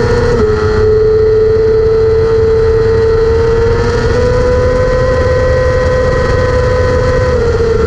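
600cc racing sportbike engine held at high revs under full throttle, heard from on board the bike. One steady high note dips briefly about half a second in, then slowly climbs in pitch.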